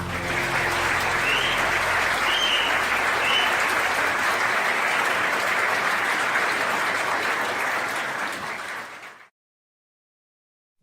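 Audience applauding at the end of a live song recording, with a few short rising whistles in the first few seconds; the applause fades out and stops about nine seconds in.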